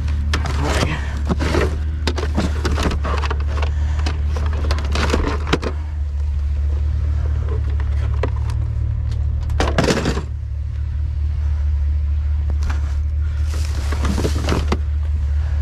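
Trash being rummaged through in a dumpster: irregular rustling, crinkling and clattering of paper and junk, with a louder clatter about ten seconds in, over a steady low hum.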